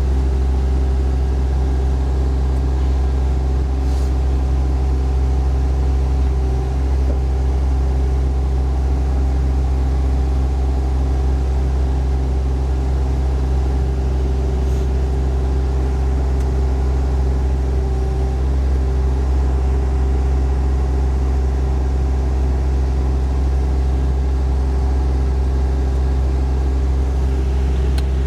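Mini excavator's Yanmar diesel engine running at a steady speed, a constant low drone with a hum on top.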